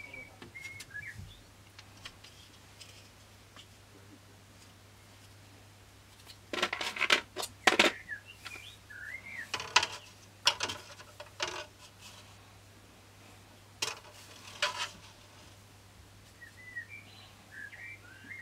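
Small bird chirping faintly in short rising and falling calls near the start and again near the end. In between come two spells of sharp clicks and rattling handling noises, the loudest sounds.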